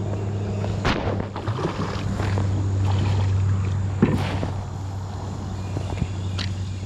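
Knocks and clatters of gear being handled aboard a fishing kayak, three sharper knocks among them, over a steady low hum.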